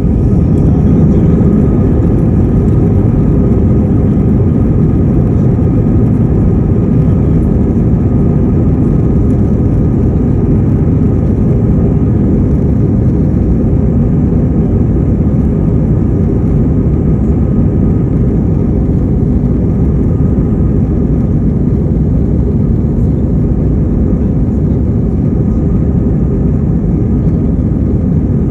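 Airbus A321-200's twin jet engines at takeoff power: a loud, steady roar heavy in the low end, with faint steady tones running through it.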